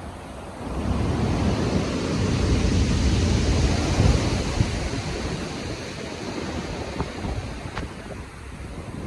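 Stormy ocean surf: a wave builds about a second in, breaks and rushes loudest around three to four seconds, then slowly recedes, over a deep steady rumble of rough sea and wind.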